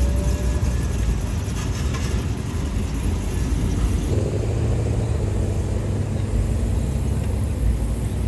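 Car engine running nearby with a steady low rumble that grows fuller about four seconds in.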